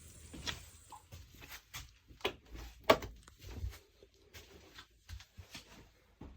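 A scattered series of light knocks and clicks, the sharpest about three seconds in: handling noises from work.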